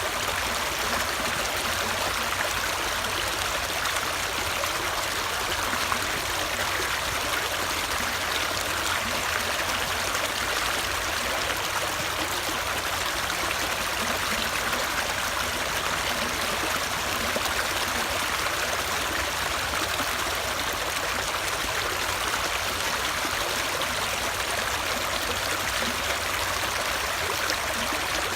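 Running water flowing steadily: a continuous, even rush with no breaks or changes.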